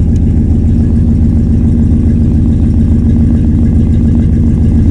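Dodge truck's 318 (5.2 L) V8 idling steadily through a Flowmaster exhaust, still cold after a cold start.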